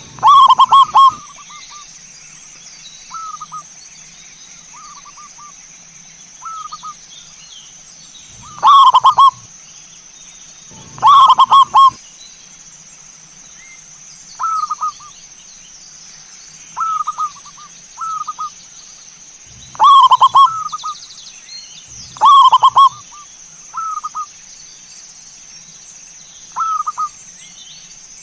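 Zebra doves (perkutut) cooing in short, rhythmic phrases. Loud calls come every few seconds, with softer, more distant coos between them.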